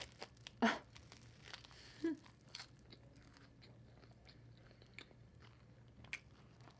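A person chewing food close to the microphone: soft wet mouth clicks and smacks, with a couple of louder bites or smacks in the first second and another shortly after two seconds.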